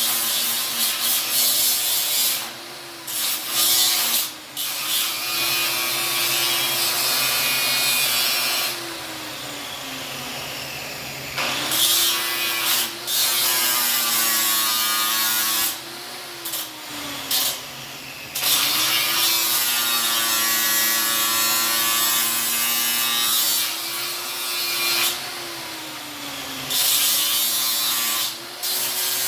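Power-tool metalwork on the steel frame cross member of a 1946 Willys flat-fender Jeep. It comes in harsh stretches of several seconds each, with a steady tone that drops in pitch as each stretch ends, and a lower steady running sound in the gaps between them.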